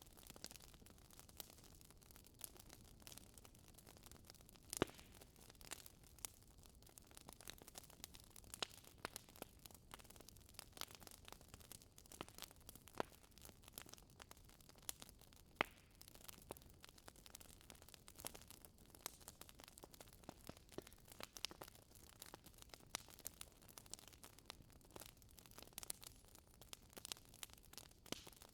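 Wood fire crackling in a fireplace: irregular sharp pops and snaps over a faint hiss, with two louder pops about five and sixteen seconds in.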